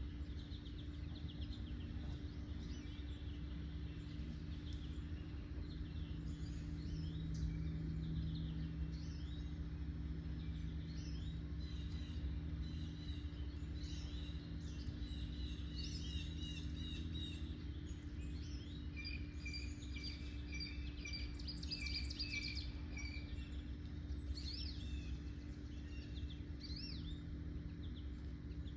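Several wild songbirds chirping and singing, with quick repeated trill phrases in the middle stretch, over a steady low background hum.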